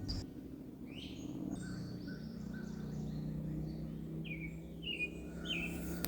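Small wild birds chirping: a string of short, high calls, with three quick chirps near the end.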